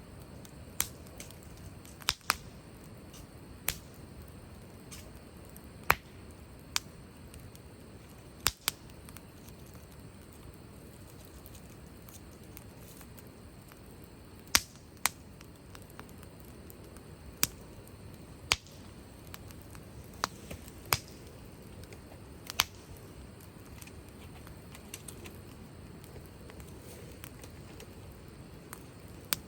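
Wood fire crackling: sharp, irregular pops every second or two over a soft, steady low rush of burning.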